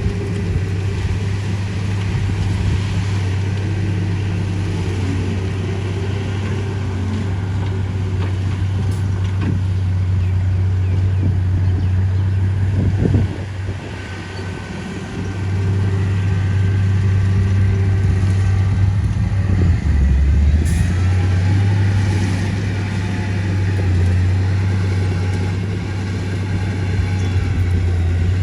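Diesel engine of heavy construction machinery running steadily, dropping back briefly about halfway through before picking up again.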